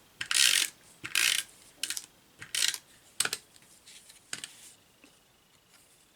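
Snail adhesive tape runner drawn across card in about five or six short strokes, each a brief ratcheting rasp, the last ones shorter and fainter.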